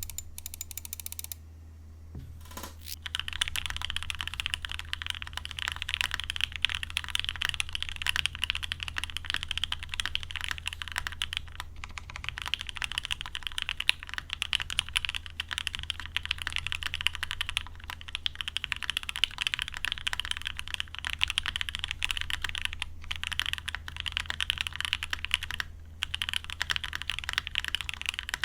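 Fast typing on a gok 7V 75% mechanical keyboard with lubed H1 switches, a polycarbonate plate and EPBT PBT keycaps, in its stock setup with no case foam and no tape mod. The keystrokes start in earnest about three seconds in and run as a dense clatter, broken by a few brief pauses.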